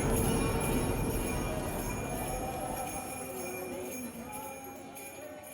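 Jingle bells shaking and ringing over a soft musical tone, the whole sound fading steadily.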